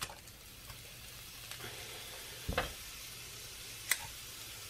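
Minced garlic sizzling in a hot pan as it is squeezed in from a garlic press, a steady soft hiss that builds from about a second and a half in. Two sharp clicks stand out from it as the metal press is worked over the pan.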